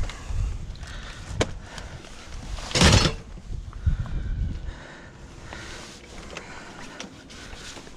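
Knocks and clatter of junk being handled and loaded, with a sharp click about one and a half seconds in and one loud crash about three seconds in.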